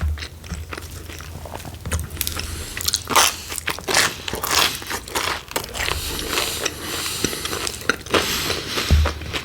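Close-miked eating of pepperoni pizza: bites and chewing with irregular crunches of the crust, one after another.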